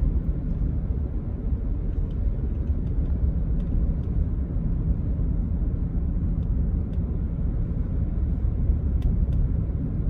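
Steady low rumble of engine and tyre noise heard from inside a moving vehicle, with a few faint scattered clicks.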